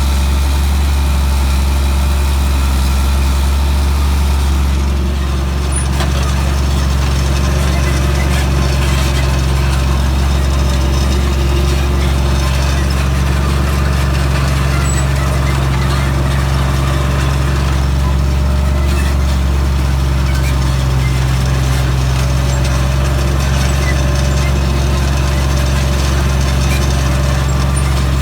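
International tractor's diesel engine running steadily, a deep even drone, while pulling a row-crop cultivator through field corn.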